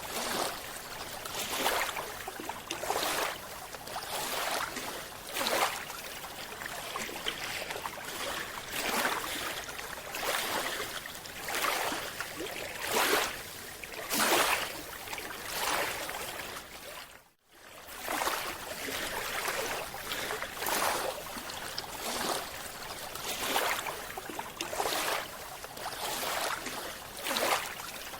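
Water swishing and rushing in repeated surges, about one every one to two seconds, with a brief cut to silence about two-thirds of the way through.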